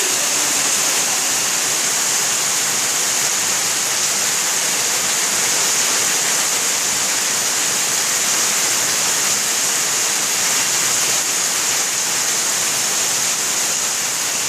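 Monsoon rain pouring steadily: a loud, even hiss that doesn't change.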